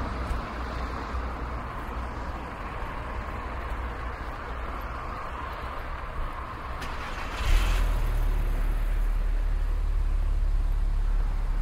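City street traffic: a steady hum of passing cars. About seven seconds in there is a short hiss, then a louder low engine rumble that holds to the end.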